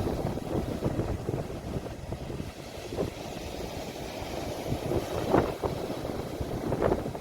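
Sea waves washing on the shore, with wind buffeting the phone's microphone as a rough low rumble. There are a few brief splashes around five and seven seconds in.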